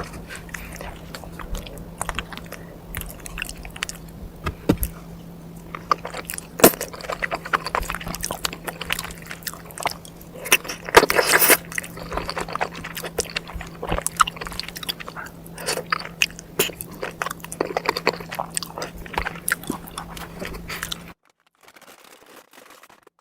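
Close-miked eating: chewing and biting with many small wet mouth clicks and crackles, busiest around the middle, over a steady low hum. Near the end the sound cuts out to near silence.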